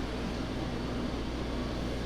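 Steady low hum of kitchen background noise, with no distinct knocks or clinks.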